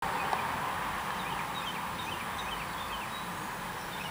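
Outdoor ambience: many short, high chirps, likely small birds, over a steady rushing background noise.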